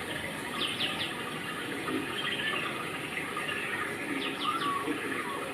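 Small birds chirping: a quick run of three falling notes near the start and again about four seconds in, over a steady rushing background noise.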